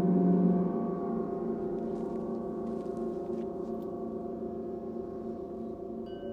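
Gong ringing in a long sustained wash of several low tones with a slow pulsing beat. The loudest low tone fades about half a second in, and a higher ringing tone enters just before the end.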